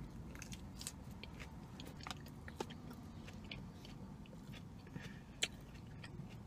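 A person chewing a mouthful of spinach chicken salad: faint, soft crunches scattered through the chewing, over a low steady hum.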